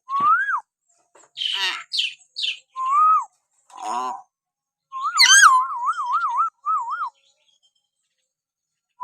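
Hill myna whistling and calling: a rising whistle, a few short harsh calls, then a warbling whistle that wobbles up and down about four times a second and breaks off about two seconds before the end.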